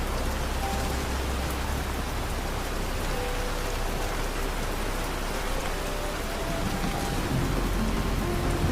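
Steady rain falling in an even hiss, over a deep low rumble that swells slightly near the start and again near the end. Soft, slow sustained music notes drift faintly over the rain.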